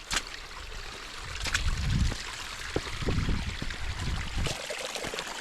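Rain runoff trickling and running along the trail in small creeks, a steady watery hiss. Low rumbling swells come twice in the middle, and there are a few sharp ticks.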